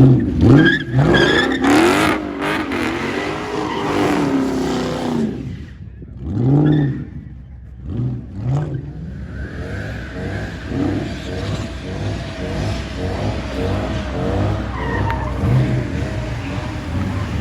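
Car engine revving hard in several quick rising and falling blips during the first few seconds. From about halfway on it is held at high revs while the tyres squeal, as in a burnout or drift.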